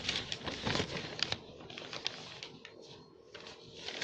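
Faint scattered clicks and light crackling, thickest in the first second and a half and then thinning out, over a faint steady hum.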